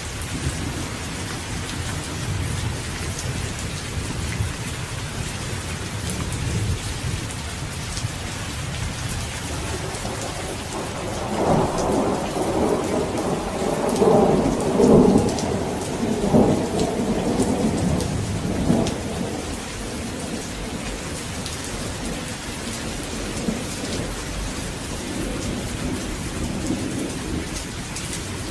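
Steady rain falling, with a long roll of thunder that swells about a third of the way in, peaks near the middle and fades away after several seconds.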